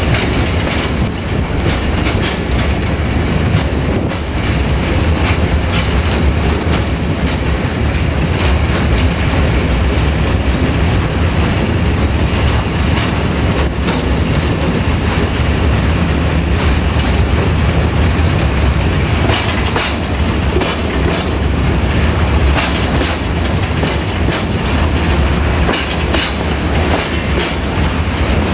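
Train rolling over jointed track: wheels clicking irregularly over the rail joints over a steady low rumble from the LDH diesel-hydraulic locomotive, heard from the open end platform of a wagon.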